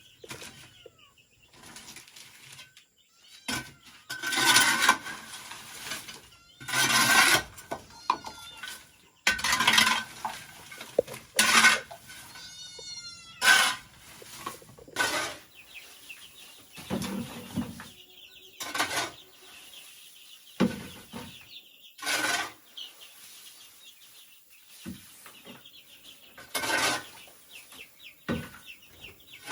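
Irregular knocks and scrapes, typical of hand work on bamboo. A brief bird call with falling pitch comes about halfway through.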